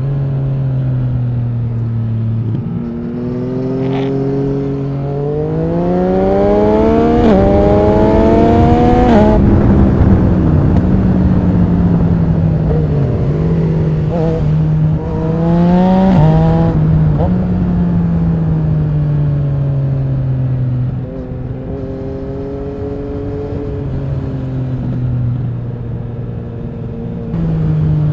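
Yamaha MT-09 SP's three-cylinder engine through an Akrapovic Racing exhaust, pulling hard up through the gears with the pitch rising and dropping at each upshift. It then comes off the throttle with a few quick blips on downshifts, and settles into steadier running near the end, with a further change of revs just before the close.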